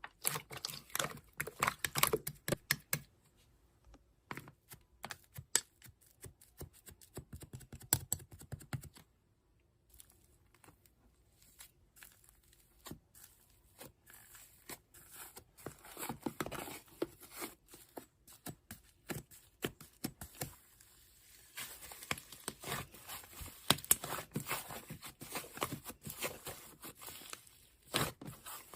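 Slime being handled by hand, pressed and squished, making irregular clicky, crackling sounds. There is a short pause about nine seconds in.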